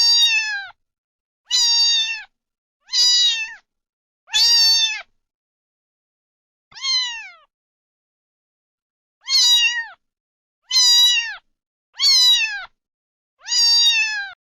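A cat meowing repeatedly: nine high-pitched meows, each under a second and falling in pitch at the end. They come at an even pace, with one longer pause about midway, and the fifth meow is softer.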